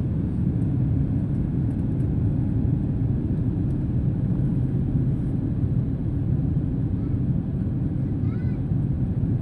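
Steady low roar of an airliner's engines and airflow heard inside the passenger cabin, even and unchanging, with a brief faint voice near the end.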